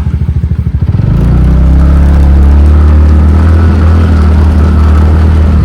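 TVS Ntorq scooter's single-cylinder engine with a rapid low putter, then about a second in opening up into a loud, steady drone as the scooter pulls away.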